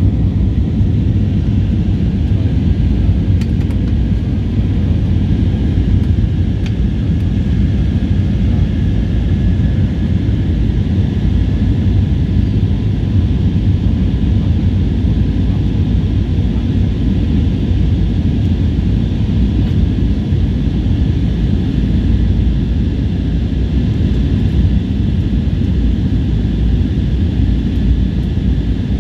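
Passenger jet during take-off, its engines and airflow making a loud, steady low rumble with a faint steady whine above it.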